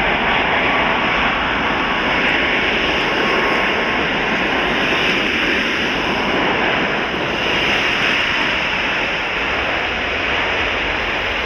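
Heavy jet airliner's turbofan engines running, a steady loud noise with a faint high whine.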